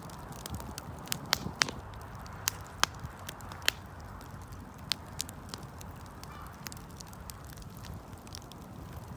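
Wood fire crackling: irregular sharp pops and snaps, a cluster of louder ones in the first few seconds, over a steady low rumble.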